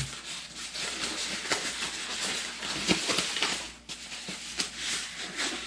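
Rustling of plastic packaging with scattered light clicks and taps as the small fittings of a shower head set are handled and unpacked.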